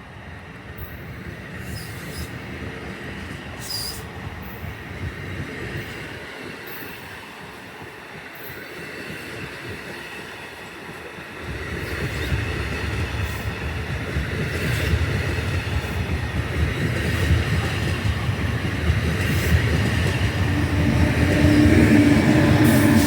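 NJ Transit commuter train approaching on the rails, its rumble getting suddenly louder about halfway in and building toward the end, with a thin high squeal from the wheels.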